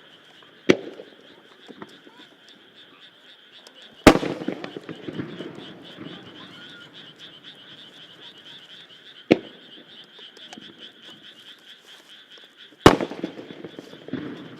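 Four single aerial firework shells bursting one after another, each a sharp boom followed by a rolling rumble; the second and fourth are the loudest. A steady chorus of frogs croaking continues underneath.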